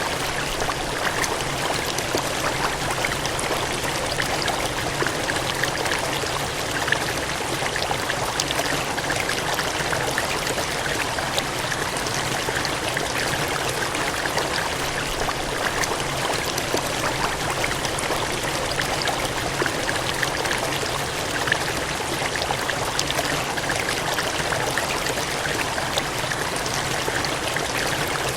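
Gushing, cascading water in a steady, even rush with no let-up.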